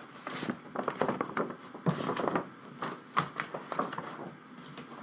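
Large folded paper poster rustling and crackling as it is handled, in quick irregular crinkles that ease off near the end.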